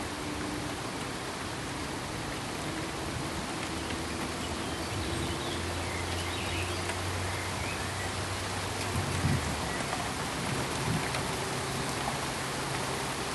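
Steady, even hiss of pink noise, with a faint low hum for a few seconds midway and a brief soft knock about nine seconds in.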